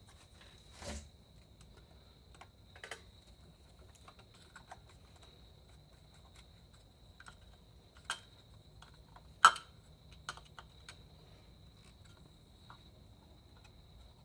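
Scattered light clicks and taps of small parts and hand tools being handled, likely while a small cover comes off the compressor; the sharpest tap is about nine seconds in. A faint steady high whine sits underneath.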